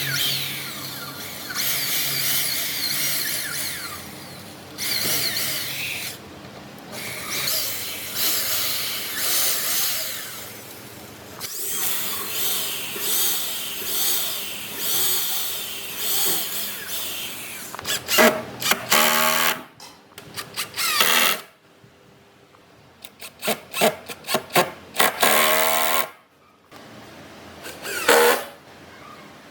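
A power tool working wood, running in stretches of a few seconds with short pauses between, then short, choppy strokes in the later part.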